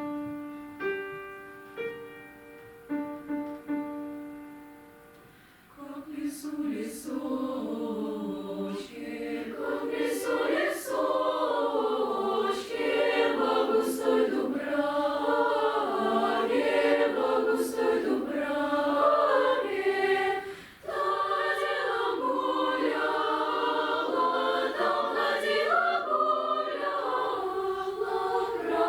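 A few single struck notes that ring and fade one after another, then a children's choir singing together, with a brief breath pause about two-thirds of the way through.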